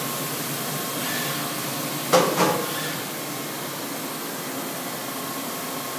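Mitsui-Seiki vertical machining center running with a steady hum and hiss and a faint steady tone, with one brief knock about two seconds in.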